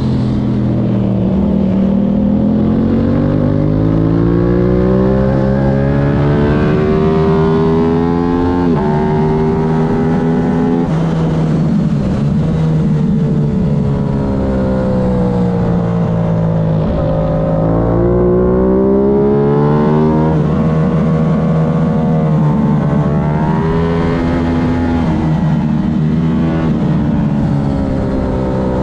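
Aprilia race motorcycle's engine at racing speed, revs climbing and falling through the gears. Its pitch drops abruptly at upshifts about nine and eleven seconds in.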